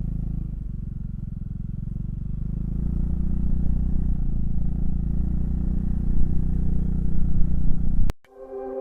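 Honda Fusion 250 scooter's single-cylinder engine running on the road, getting louder about three seconds in. It cuts off abruptly near the end.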